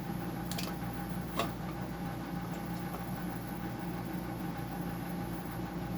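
Steady low electrical-machine hum, with two short plastic clicks about half a second and a second and a half in as a wire connector is worked off a dehumidifier's control board.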